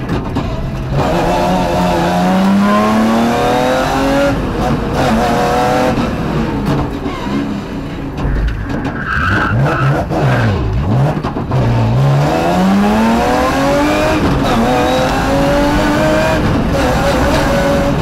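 BMW rally car's engine heard from inside the cabin, revving hard and climbing through the gears, its pitch dropping sharply at each upshift. About halfway through the revs fall right away with quick blips, then climb again under full acceleration.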